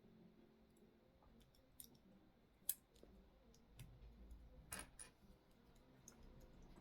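Plastic LEGO pieces being handled and pressed together: a few faint, sharp clicks, the sharpest a little under halfway through and a short run of clicks about two-thirds in.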